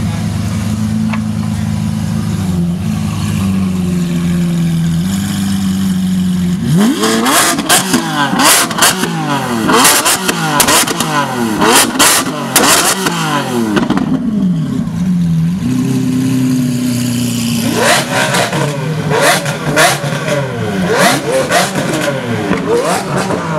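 Supercar engine idling, then revved hard in quick repeated blips with sharp crackles on each lift-off, settling back to idle for a few seconds and revved again the same way near the end.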